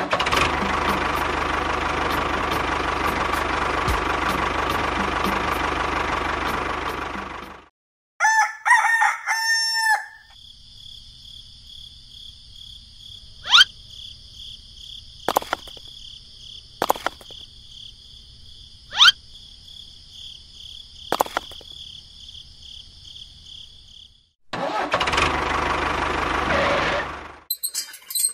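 Mini tractor's small engine running steadily, then cutting off abruptly; a rooster crows once about eight seconds in. Then a quiet stretch with a high steady whine and a few sharp clicks, before the engine runs again near the end.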